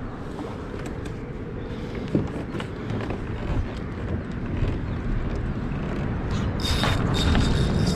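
Wind rumbling on the microphone, growing louder, with scattered small clicks and knocks; about seven seconds in comes a short hiss and then a thin high steady tone.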